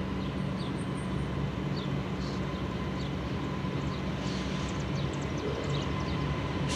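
A steady low engine hum, with short faint chirps of small birds scattered over it.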